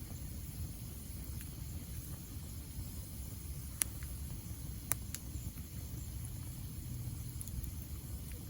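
Wood fire burning with a steady low rumble and a few sharp pops of crackling wood, the loudest about four and five seconds in.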